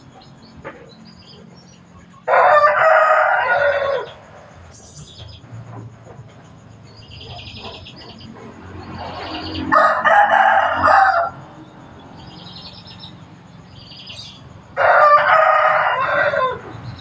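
Rooster crowing three times, each crow about a second and a half long, with small birds chirping faintly between the crows.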